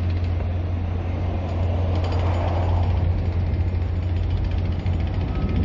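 A vehicle engine running steadily, a low drone, over the noise of street traffic.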